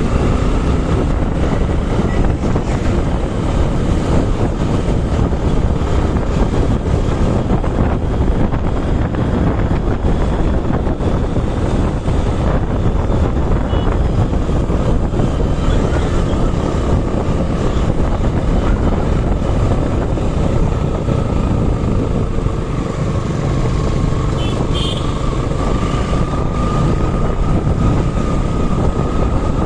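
Suzuki Gixer SF motorcycle running while ridden, with wind rushing over the microphone; steady throughout.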